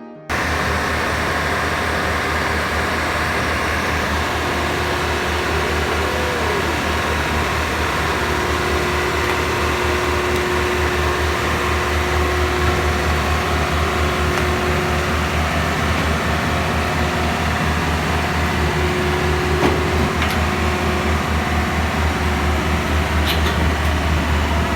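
Diesel engine of heavy earthmoving equipment running steadily, a loud low drone, with a few faint squeaks and clicks from the machine over it.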